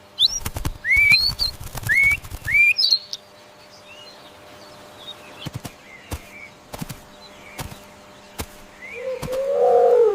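Bird calls: three loud rising whistled notes in quick succession, then faint chirps. Near the end a lower, harsher animal call begins.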